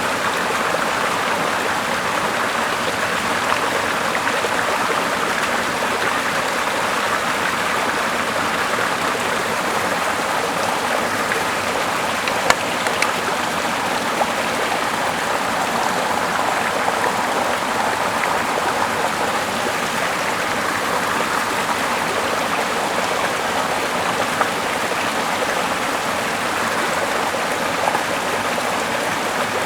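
Small river running steadily over rocks, an even rush of water. Two short sharp clicks stand out, one near the middle and one near the end.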